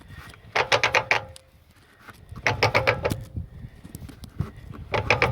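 Front CV joint on a Dodge Ram 1500 4x4 clicking as the raised passenger wheel is spun by hand. A quick run of sharp clicks with a low rumble comes three times, about every two and a half seconds. The clicking is the sign of a worn inner CV joint, as the owner believes.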